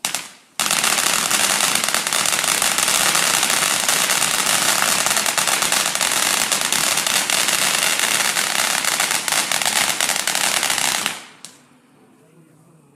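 Firework barrage going off: a loud, dense, unbroken rattle of rapid small bangs and crackles that starts abruptly about half a second in and stops suddenly about two seconds before the end. A single short pop comes just before it.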